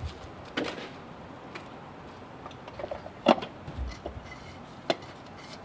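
Scattered knocks and clicks as a filter element and its sleeve are handled and pushed into place on the filter housing, the loudest sharp knock about three seconds in.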